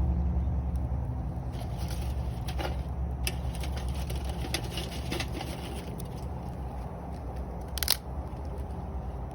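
Wood campfire crackling, with scattered sharp pops over a low steady rumble and one louder crack about eight seconds in.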